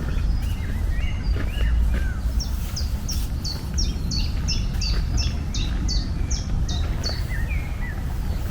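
A songbird singing: a few scattered chirps, then a run of about a dozen quick high notes, each sliding downward, over a steady low rumble of outdoor background noise.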